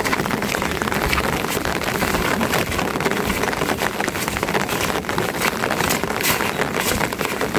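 Steady rain falling, with a dense patter of individual drops striking a surface close by.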